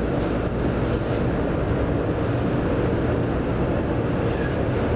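Steady running noise inside the passenger car of a Hanshin 1000 series electric train under way between stations.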